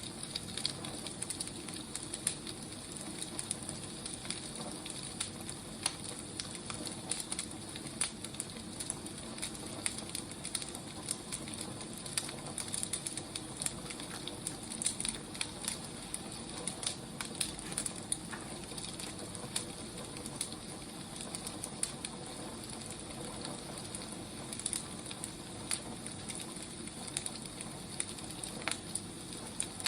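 Firewood burning: a steady low hiss with frequent irregular crackles and pops.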